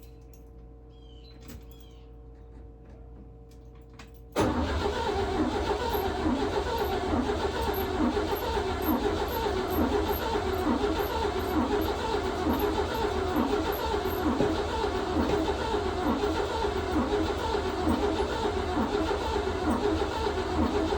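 1953 Chevy Bel Air's straight-six engine being cranked over by its starter, a steady rhythmic churning that begins suddenly about four seconds in and keeps going without the engine catching: a cold, hard-to-start engine.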